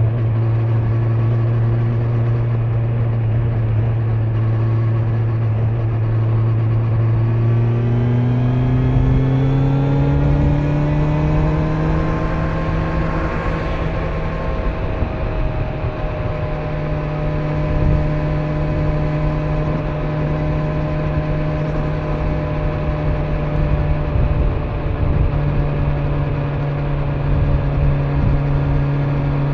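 Kawasaki Z900 inline-four engine under way, with wind and road noise. It runs steadily, then its pitch rises for a few seconds as the bike accelerates, and it settles to a steady cruise.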